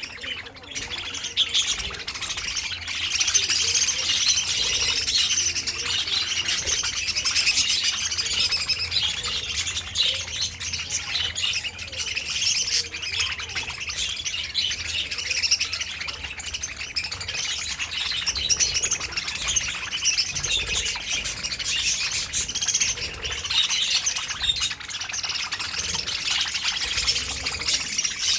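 A flock of budgies chattering and chirping continuously, many birds at once in a dense, busy warble.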